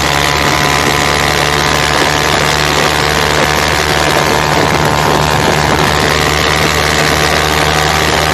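Honda Titan motorcycle's single-cylinder four-stroke engine, bored out with a 170cc kit, running at a steady speed with an even, unchanging note.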